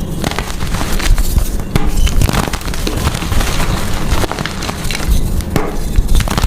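Blocks of gym chalk being crushed and crumbled, a dense, continuous crunching crackle.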